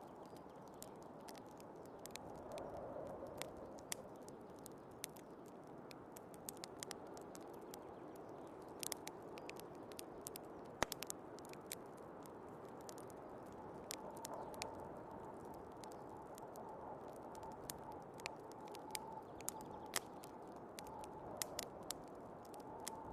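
Wood fire crackling with irregular small pops and one sharper snap about eleven seconds in, over a steady low rush of storm wind. A faint wavering whistle comes in about halfway.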